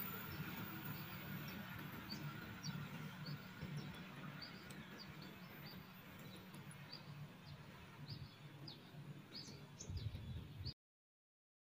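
Small birds chirping repeatedly in short, scattered calls over a faint low rumble from a departing passenger train that dies away. The sound cuts to silence shortly before the end.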